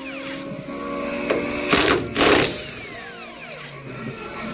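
Two sharp knocks, about half a second apart near the middle, of a tool chipping sound-deadening material off the steel underside of a Toyota AE92 Corolla Levin body, each followed by a brief ringing, over a steady low hum.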